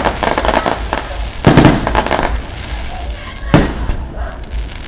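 Firecrackers going off: strings of sharp pops in two dense bursts, then a single loud bang about three and a half seconds in.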